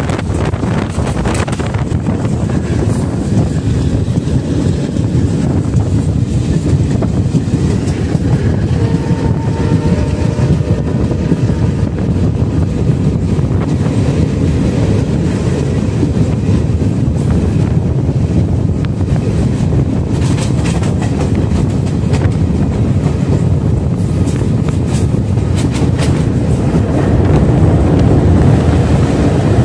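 Passenger train running on the rails, heard from on board: a steady rumble with occasional sharp clicks from the wheels. It grows a little louder near the end as the train enters a tunnel.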